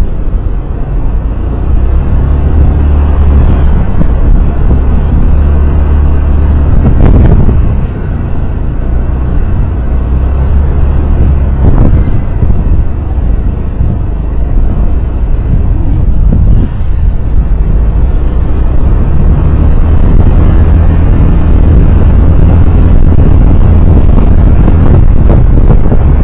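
Steady low rumble of a road vehicle on the move: engine and road noise recorded from the vehicle itself.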